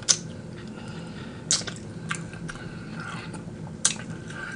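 Close chewing and crunching of fried chicken wings, with a few sharp crunches standing out over a low steady hum.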